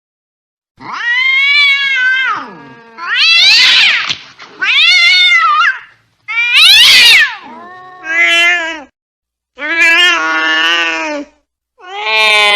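A cat yowling angrily: about six long, wavering caterwauls, each a second or two with short breaks between them, starting just under a second in, the last one still going at the end.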